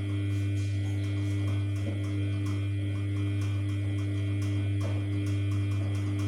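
Samsung P1271 washing machine running mid-wash: a steady low hum.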